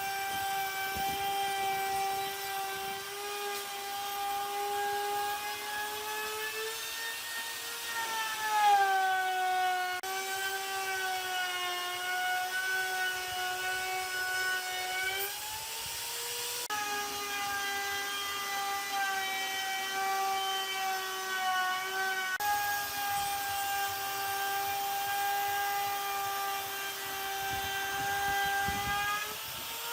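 Handheld power tool's electric motor running with a steady high whine, its pitch dipping and rising a few times.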